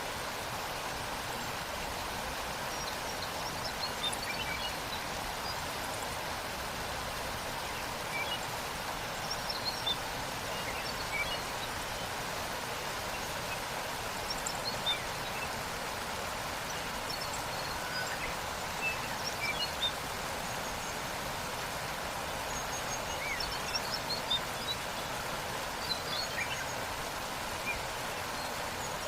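Steady sound of a waterfall's falling water, with short bird chirps scattered over it.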